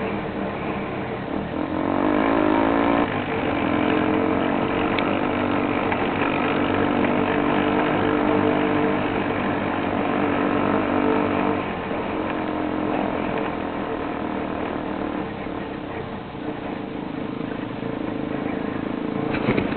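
Motorcycle engines running, their pitch shifting up and down as the throttle changes.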